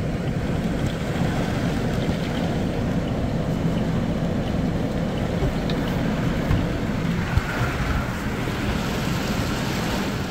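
Heavy downpour drumming on a car's roof and windows, heard from inside the closed cabin as a steady dense rush.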